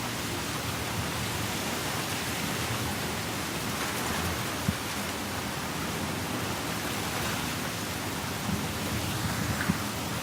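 Heavy rain falling steadily, an even hiss, with a few sharper drops tapping about five seconds in and near the end.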